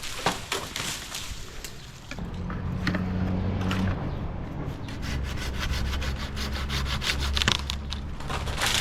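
A saw rasping through an oak branch, stroke after stroke, loudest in the second half. A low steady engine hum joins in about two seconds in.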